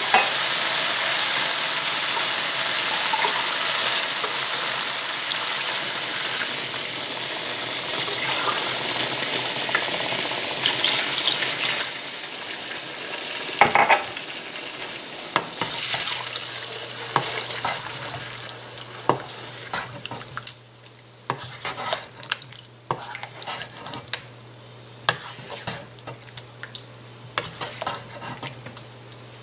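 Masala and potato chunks sizzling and frying in a pot, stirred with a wooden spoon. About twelve seconds in the sizzle drops away as water goes in, leaving a quieter watery gravy and the spoon's scrapes and knocks against the pot.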